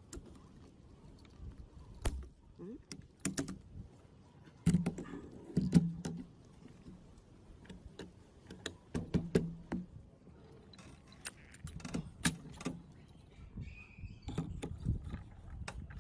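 Irregular metallic clinks and knocks of gearbox parts being handled and set down, with a few louder knocks in the middle.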